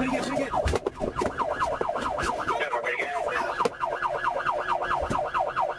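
Police car siren in its fast yelp mode, sweeping up and down about four to five times a second.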